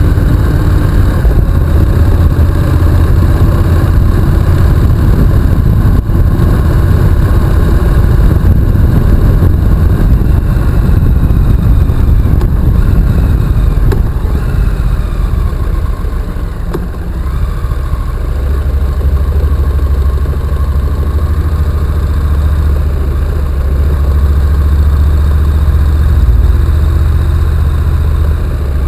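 Honda NC750X motorcycle's parallel-twin engine running on the move. The engine note shifts and eases off about halfway through, then settles into a steady low drone.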